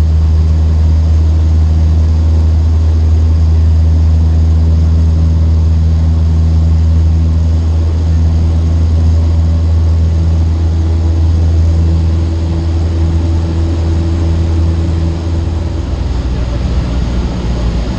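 Cessna 152's four-cylinder Lycoming engine and propeller running steadily, heard from inside the cabin as a loud, even low hum that eases slightly in the last few seconds.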